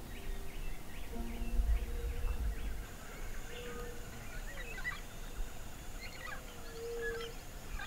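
Birds calling: many short chirps and whistles, with a few longer, lower held notes, over a low rumble that is strongest early on.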